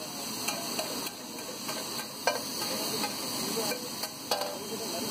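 Chopped tomato and capsicum sizzling in oil on a large flat pav bhaji tawa while a long-handled flat spatula stirs and scrapes them across the griddle, with a few sharper scrapes.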